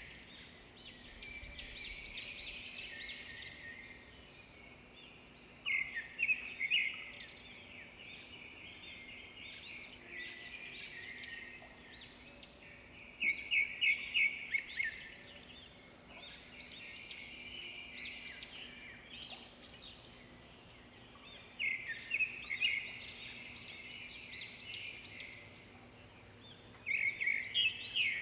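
Birds singing: loud bursts of rapid, high chirping notes recur four times, roughly every seven or eight seconds, with softer chirping in between.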